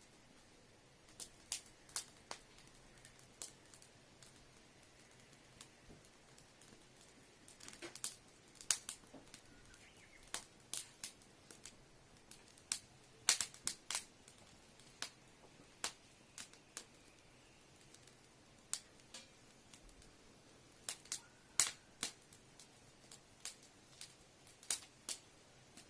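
A homemade fire starter burning, its small flame crackling with irregular sharp pops, several in quick clusters.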